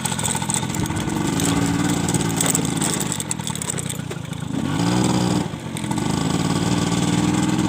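A vehicle engine running under way. The revs climb about five seconds in, dip briefly, then hold steady.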